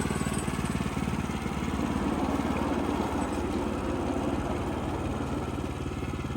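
Small single-cylinder gasoline engine of a Wood-Mizer LX25 portable sawmill running steadily at an even speed.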